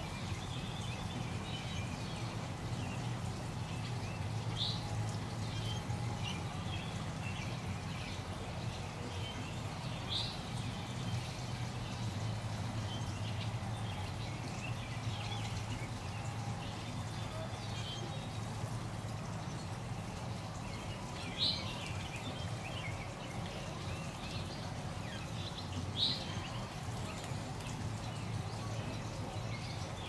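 Small birds giving short, single chirps several seconds apart, the two near the end the loudest, over gently trickling water of a shallow garden stream and a steady low hum.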